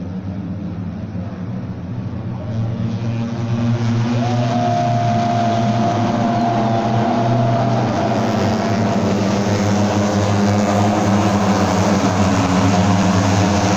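Moto3 racing motorcycles' small single-cylinder engines running at high revs on the circuit, a dense continuous engine noise that swells louder about three seconds in and stays loud.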